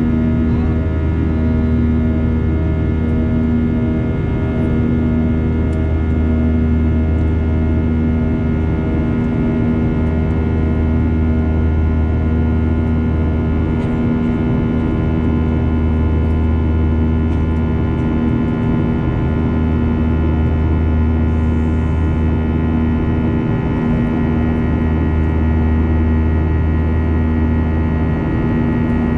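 Steady drone inside the cabin of a Boeing 737-800 in flight, from its CFM56-7B engines and the airflow. Several held engine tones sit over the low rumble, one of them pulsing about once a second.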